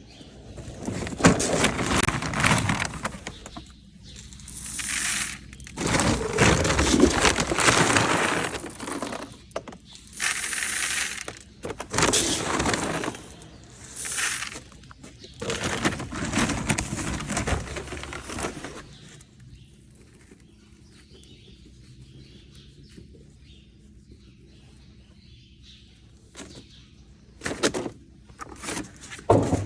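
Dry horse feed being scooped and poured into feed buckets in a run of rattling, hissing pours of a second or two each. Near the end come two short knocks.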